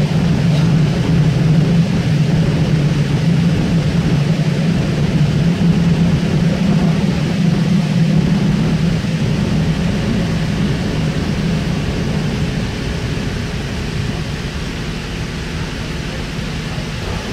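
Running noise inside a Sydney K-set double-deck electric train car as it travels: a steady low drone of wheels and running gear, easing slightly near the end.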